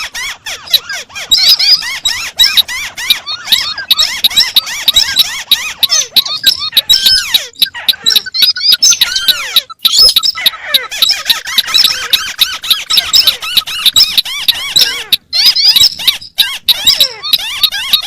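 Recorded calls of several rice-field crakes played together as a bird-catching lure. It is a loud, dense, unsynchronised stream of rapid squeaky chirps and chatters, with a few brief dropouts.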